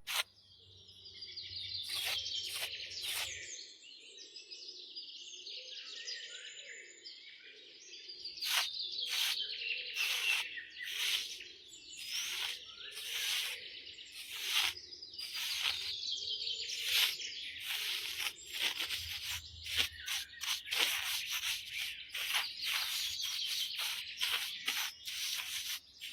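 Birds chirping in quick, repeated calls, with many sharp clicks mixed in.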